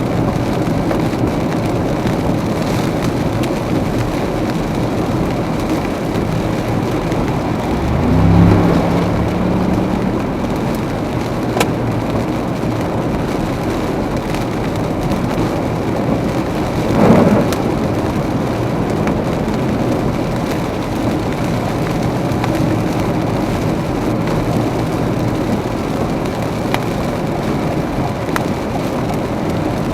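Heavy rain and a car's tyres on a flooded wet road make a steady hiss, with two brief louder swells, about eight seconds in and again about seventeen seconds in.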